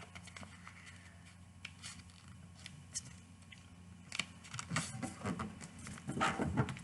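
A sheet of paper being folded and creased by hand: scattered light rustles and scrapes, with louder sliding rustles about four and a half seconds in and again near the end.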